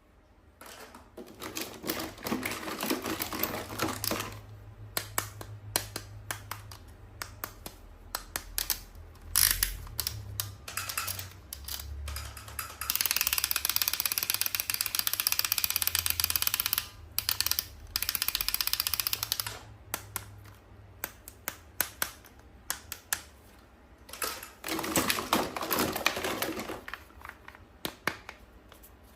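Toy packaging being handled and opened: many quick clicks and taps. There are stretches of plastic rustling near the start, a longer one in the middle and another near the end.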